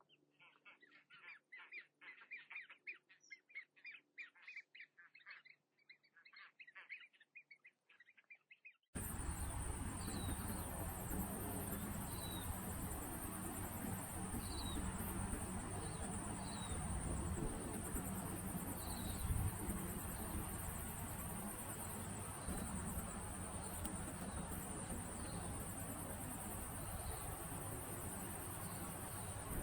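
Small birds chirping rapidly over a quiet background. About nine seconds in, the sound switches abruptly to a louder steady rushing noise with a continuous high insect chirring and occasional brief bird chirps.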